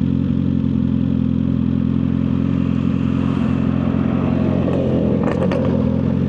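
Suzuki GSX-R1000R inline-four running through an aftermarket full exhaust, holding a steady low engine note with no revving, as at idle. A few short clicks come about five seconds in.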